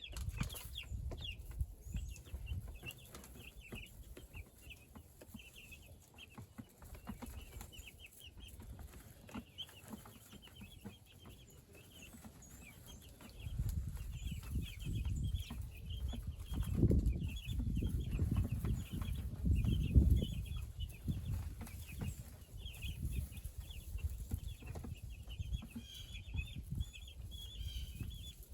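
Young meat chickens cheeping continually, many short high peeps overlapping. Low rustling and bumping swells about halfway through, heaviest in two thumps a few seconds apart, then fades.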